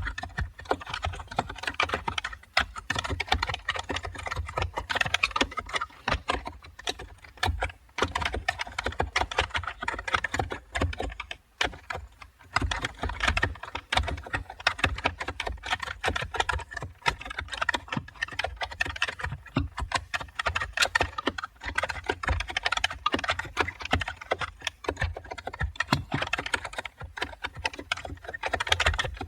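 Computer keyboard being typed on continuously, a dense run of key clicks with a few short pauses.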